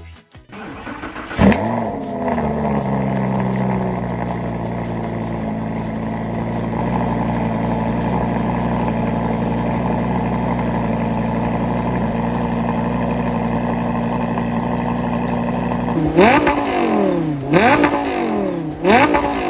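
Lamborghini Gallardo V10 engine firing up with a sharp flare of revs about a second and a half in, then settling to a steady idle. Near the end the throttle is blipped three times, each rev rising and falling quickly.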